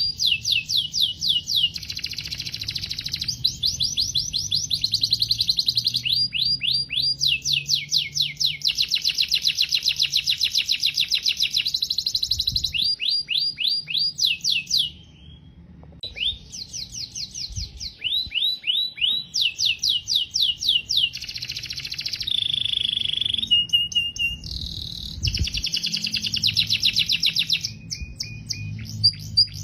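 Domestic canary singing: long rolls of rapid, repeated falling notes that change pattern every few seconds. There is one brief break about halfway through.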